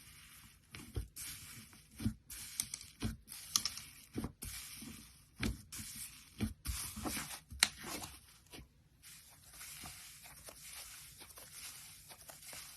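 Slime being squeezed and stretched by hand: sticky crackling with irregular sharp pops and clicks. After about nine seconds the pops thin out into a softer, steadier crackle.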